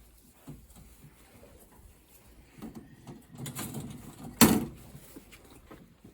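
Rustling and knocking in a pigeon loft as birds are handled, with one loud, sudden clatter about four and a half seconds in.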